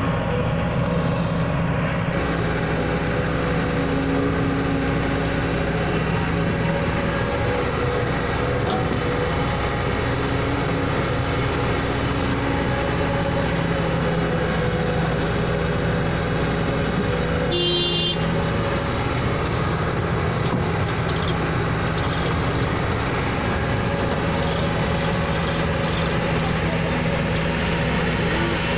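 Heavy diesel engine running steadily at a constant speed, with one short horn-like toot about two-thirds of the way through.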